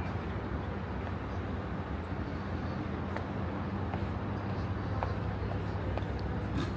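Steady low mechanical hum in city ambience, with a few faint clicks and taps over it.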